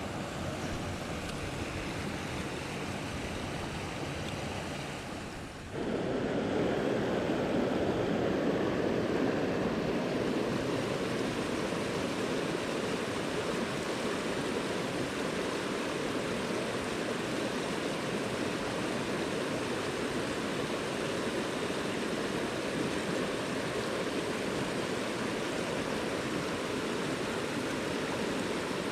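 Mountain stream water rushing steadily over rocks. About six seconds in, the sound cuts to a louder, fuller rush that then holds steady.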